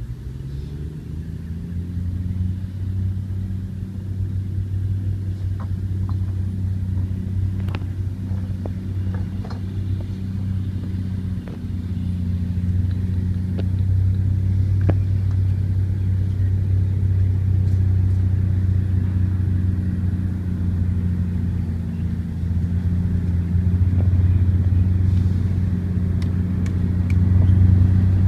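Heavy construction vehicle's engine running with a steady low hum, rising in pitch in the first couple of seconds and growing gradually louder, with a few scattered knocks.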